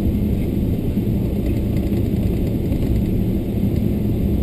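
Cabin noise of a Boeing 777-300ER taxiing on the ground: a steady low rumble with a faint hum underneath.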